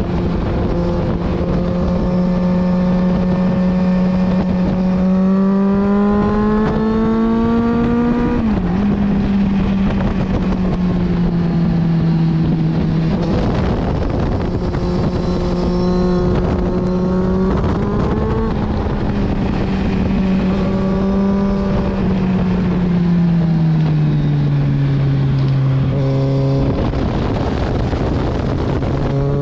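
Kawasaki Z900's inline-four engine heard onboard at track pace, with rushing wind. The revs climb through a gear and drop sharply at a shift about eight seconds in, climb again, then fall away in steps through a long slowdown before rising again near the end.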